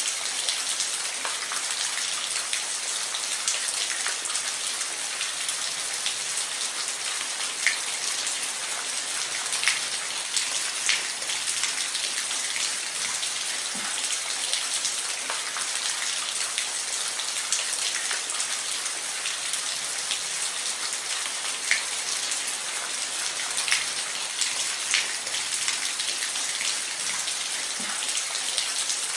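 Steady rain falling on a roof, a dense hiss with scattered louder individual drops.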